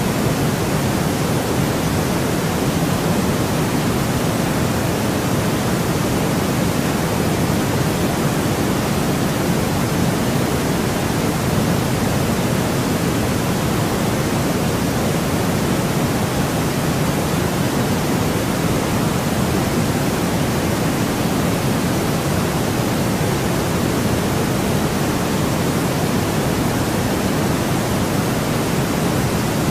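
Steady, unbroken electronic noise with no events, a constant hiss-like rush that is stronger in the lower range than plain flat white noise.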